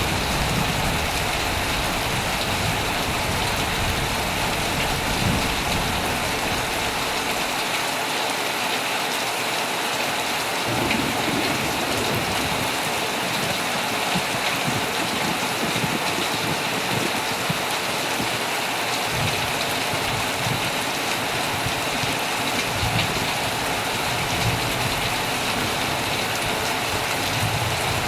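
Heavy rain pouring steadily on a tent, a dense even hiss with no let-up. A faint low rumble comes and goes underneath, in the first few seconds and again in the last third.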